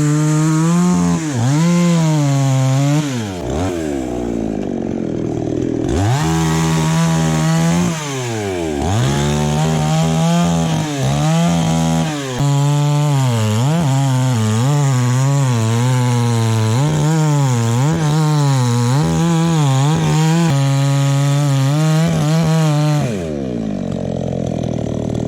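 Two-stroke chainsaw cutting into anjili tree wood, its engine note repeatedly dipping and recovering as it bogs under load. The revs drop away near the end.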